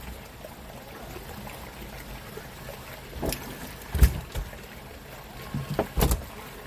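Steady low rumble of a fishing boat, broken by a few sharp thumps: one about three seconds in, a loud one about four seconds in, and a pair near six seconds.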